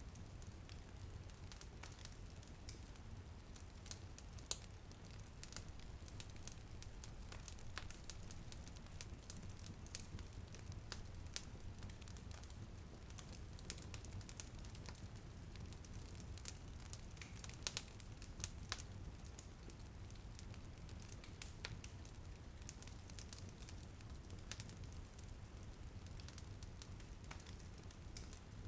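Wood fire in a fireplace crackling, with scattered sharp pops over a steady low rumble. A few pops stand out louder, one about four seconds in and two together a little past the middle.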